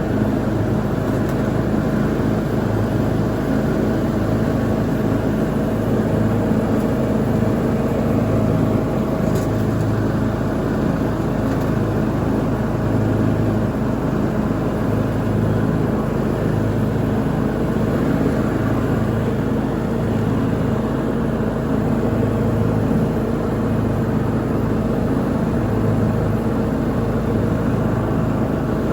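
Lawn mower engine running steadily while mowing.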